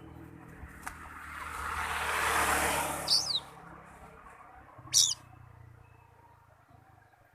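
Oriental magpie-robin (kacer) giving two short, sharp calls, a falling chirp about three seconds in and a louder, harsher one about five seconds in. Before the first call a rush of noise swells and fades.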